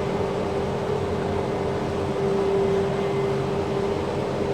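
Cummins diesel engine of a self-propelled sprayer running steadily under load in first gear on a steep hill, heard from inside the cab, with a steady whine over the engine drone.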